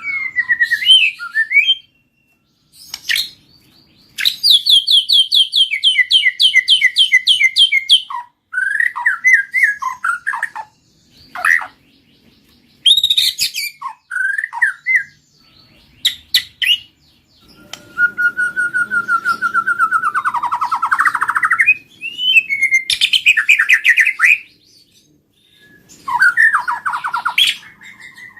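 White-rumped shama singing a long, varied song: whistled notes that glide up and down, fast runs of repeated notes, and a long warbling phrase about two-thirds of the way through, with short pauses between phrases.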